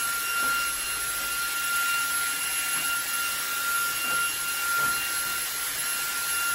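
Cordless vacuum cleaner with a brush attachment running, sucking dust from a return air vent: a steady motor whine over a rushing hiss.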